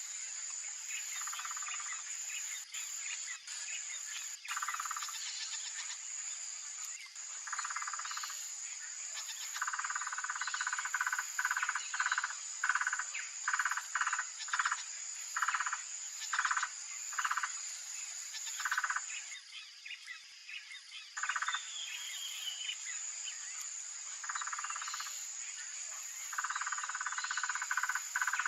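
Male blue-crowned trogon giving its territorial song: runs of short, evenly repeated notes, about two a second, over a steady high-pitched insect drone.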